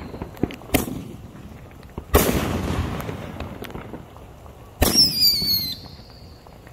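Consumer aerial fireworks going off: three sharp bangs, about a second, two seconds and five seconds in, the second with a long fading rumble. The last bang comes with a whistle that falls slightly in pitch for about a second.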